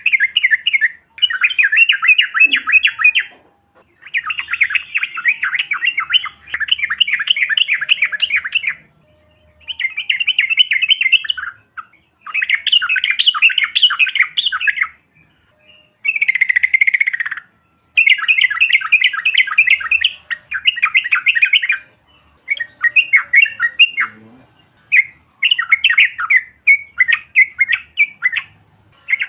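Several yellow-vented bulbuls (trucukan) singing in long, rapid chattering rolls, burst after burst with short pauses between, and one downward-sliding call about halfway through.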